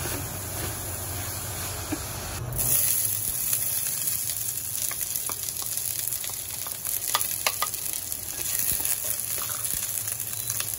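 Food sizzling in hot oil in a stainless steel pan, stirred with a wooden spatula that gives a few light knocks and scrapes against the pan. The sizzle grows louder about two and a half seconds in, when diced onion is frying.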